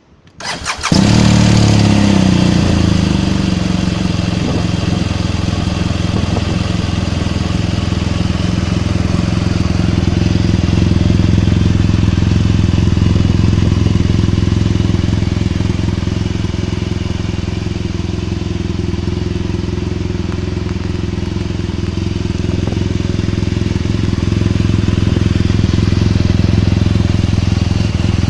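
BMW R1200GS LC boxer-twin engine, fitted with an Origin aftermarket muffler, starting about a second in and settling into a steady idle through the exhaust.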